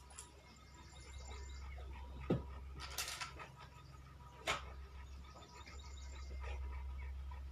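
Three short, sharp knocks or clicks, between about two and five seconds in, over a steady low hum.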